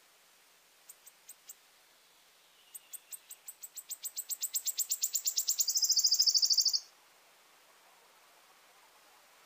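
Wood warbler singing one song: a few separate high notes, then a run of notes that speeds up and gets louder into a fast trill, which stops abruptly.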